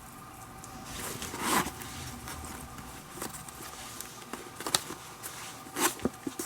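Leather lace being drawn through the lacing holes of a baseball glove: soft rustling of leather with a few short rasping scrapes, the loudest about a second and a half in.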